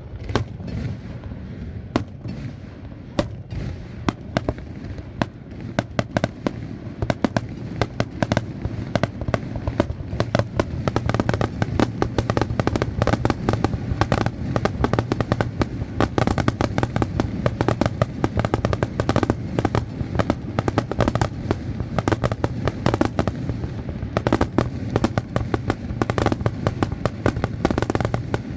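Aerial fireworks display: sharp bangs and crackling bursts, spaced out at first, then a dense near-continuous barrage of reports from about ten seconds in, over a steady low rumble.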